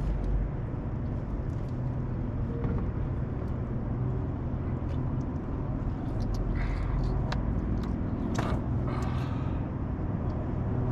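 Steady low hum of a boat's motor running, with a few short clicks and knocks about six and eight and a half seconds in.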